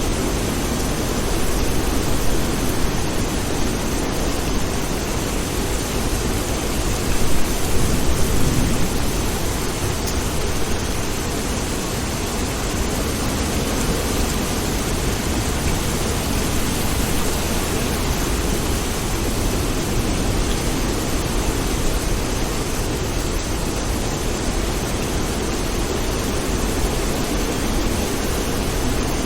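Steady rain falling in a continuous, even hiss, briefly swelling a little louder about seven seconds in.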